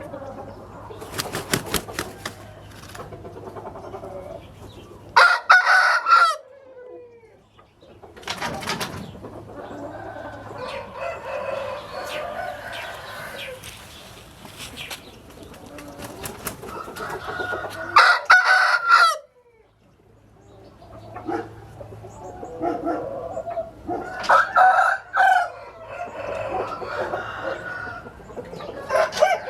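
Gamefowl roosters crowing: three loud crows about 5, 18 and 24 seconds in, with quieter chicken calls in between.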